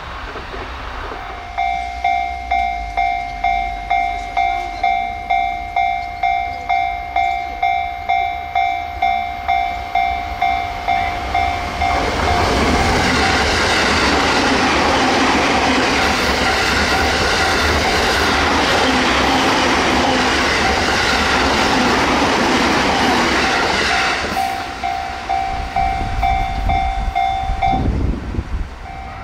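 A level crossing warning bell ringing in even strokes about one and a half times a second, then an electric train passing at high speed for about twelve seconds, its rushing noise drowning out the bell. The bell rings on after the train has gone and stops briefly near the end.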